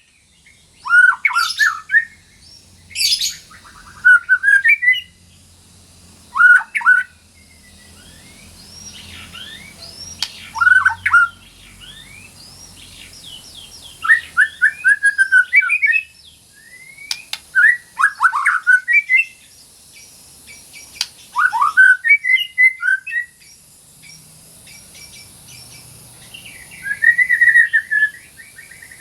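White-rumped shama (murai batu) singing in short, repeated bursts of varied whistles and sliding chirps, with brief pauses between phrases.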